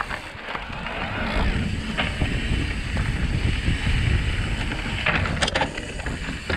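Wind buffeting the microphone and tyres rolling over a dirt trail as an electric mountain bike is ridden along, with a short burst of clattering about five seconds in.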